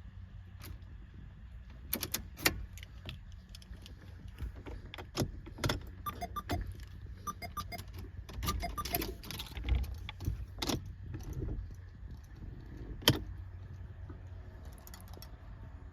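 A vehicle's key ring jangling, with a series of sharp clicks as the key is worked in the ignition of a vehicle that won't start in neutral. No engine cranking or running is heard. There is a steady low hum underneath.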